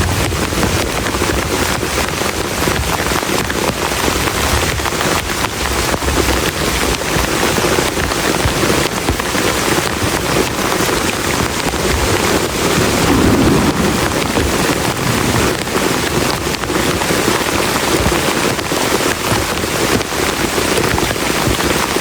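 Heavy rain beating steadily on a plastic tarp, a dense patter of drops, swelling briefly a little past halfway.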